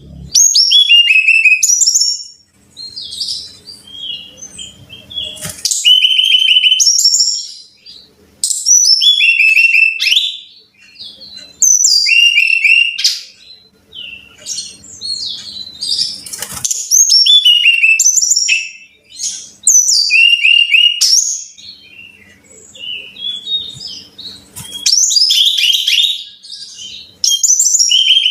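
Brown-chested jungle flycatcher singing: loud phrases of clear whistled notes, many sliding down in pitch, repeated every second or two with short pauses between them.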